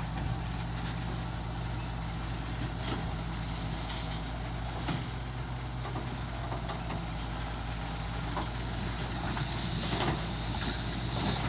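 Heavy diesel engine running steadily at low speed, with scattered metallic knocks. A louder high hiss and clatter builds near the end.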